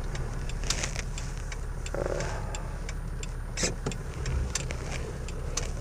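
Toyota LandCruiser 79 Series engine running at low speed, with a turn-signal indicator ticking evenly about three times a second.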